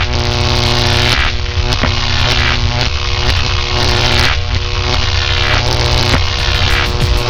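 632 cubic-inch big-block Chevy V8 running loud at a steady speed on the engine dyno, its note holding one even pitch.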